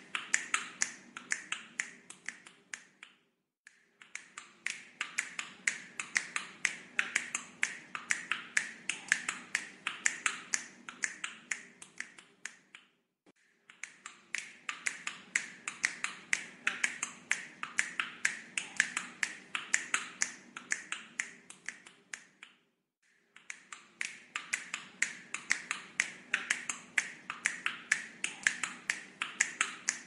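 Rapid sharp clicking, many clicks a second, played in stretches of about nine seconds with short breaks between them. It is a looped clicking sound (طقطقة) for a talking parrot to learn and copy.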